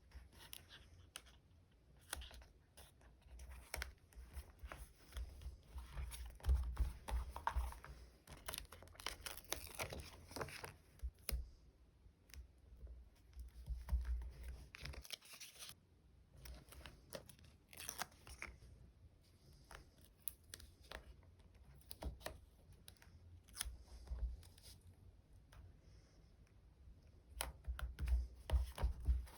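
Close-up handling of stickers and plastic sticker packaging: peeling stickers off their backing and crinkling plastic sleeves, with small taps and clicks. There are a few longer peeling or rustling strokes in between.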